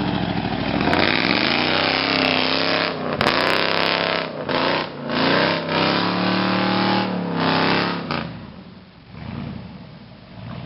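1988 Ford F-150's 302 (5.0 L) V8 revving up and down in several surges, then dropping away to a much lower level about eight seconds in.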